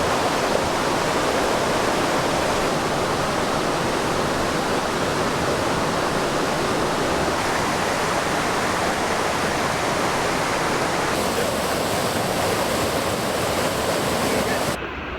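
Creek water rushing in a loud, steady, even rush, which drops off suddenly near the end.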